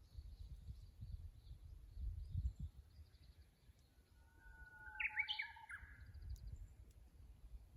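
Japanese bush warbler singing once, about four seconds in: a long held whistle, then a quick rising, warbling "hokekyo" flourish. Faint high chirping of other small birds runs throughout, over a low rumble.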